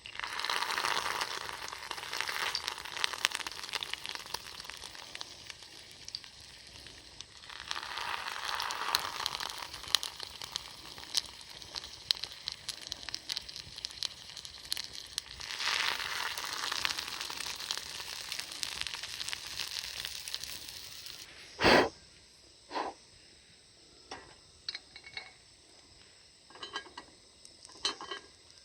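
Food sizzling and crackling in a hot cast-iron pan over a fire pit, swelling and easing in three waves. The sizzle stops about three quarters of the way through with one loud sharp knock, followed by a few small scattered clicks.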